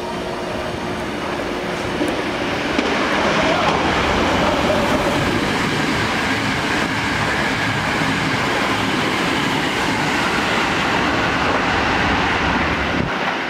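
Hankyu electric train passing through the station at speed: a loud rush of wheels on rail and running gear that builds about two seconds in and holds, with some clickety-clack. The low rumble cuts off suddenly near the end.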